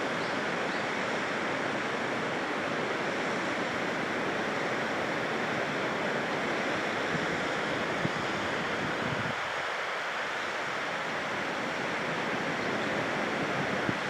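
Waterfall: falling water rushing as a steady, even roar.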